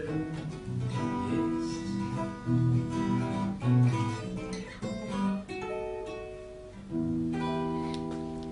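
Acoustic guitar playing the closing bars of a song: single plucked notes and short phrases, then a final chord struck about seven seconds in that rings on and fades.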